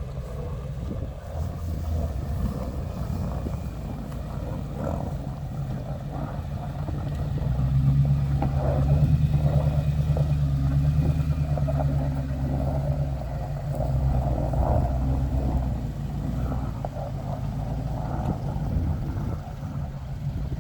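Truck engine of a Titan-swapped Nissan Xterra running at low speed, growing louder for several seconds in the middle of the stretch as it works harder, then easing back.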